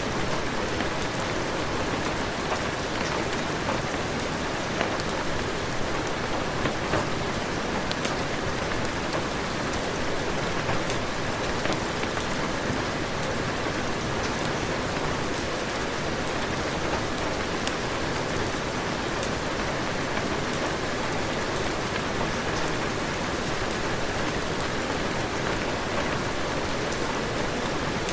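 Steady heavy rain falling, with a dense patter of individual drops striking a surface.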